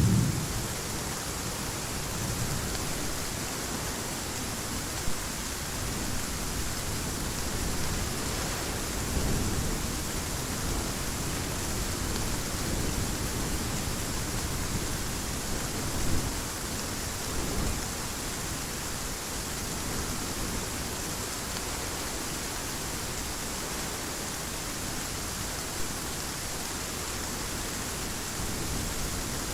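Steady heavy rain, an even hiss, with the tail of a thunderclap dying away in the first second. A few faint low rumbles of thunder follow.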